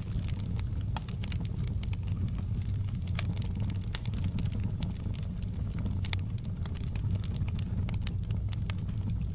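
Wood fire in a fireplace crackling: sharp, irregular pops and snaps, several a second, over a steady low rumble of the flames.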